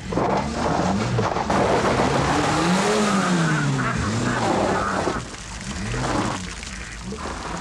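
Small Suzuki four-wheel drive's engine revving hard as it drives off across gravel, its pitch rising and falling several times, with tyre noise on the loose stones.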